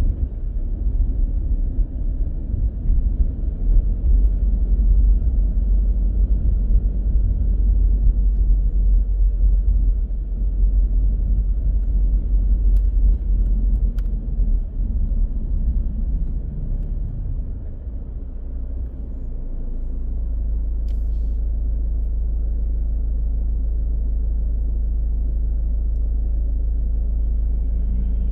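Low road rumble of a car driving, heard through a dashcam microphone. It is uneven and buffeting at first, and about two-thirds of the way through it settles into a steady, even low hum.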